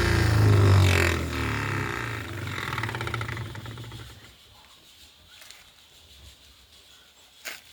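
Blender motor driving a homemade knife sharpener runs with a hum and a higher whirring hiss, then winds down and stops about four seconds in. A couple of small clicks follow.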